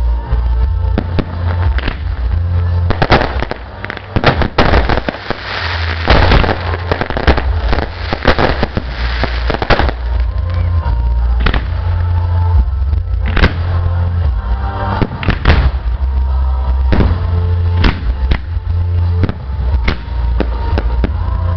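Fireworks display bursting over loud music with a heavy bass beat: a dense run of crackling bursts about four to ten seconds in, then scattered single bangs.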